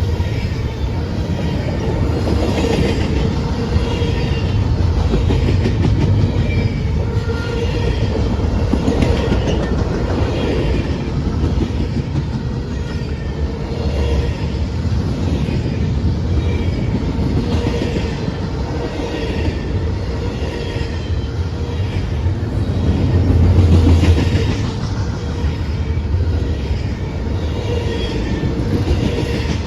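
Train cars rolling past, their wheels clicking over the rail joints about once a second above a steady low rumble. It swells louder briefly near the end.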